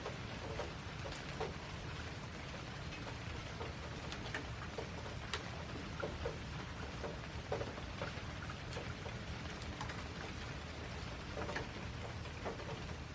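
Steady rain with scattered individual drops ticking on a surface, over a low rumble.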